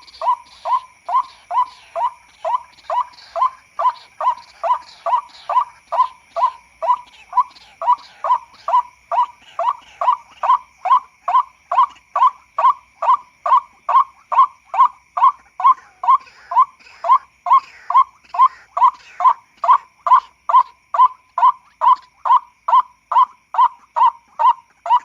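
White-breasted waterhen (ruak-ruak) lure call: short, harsh notes repeated evenly at about two a second, as played to draw the birds in at night. A faint steady high tone runs behind it.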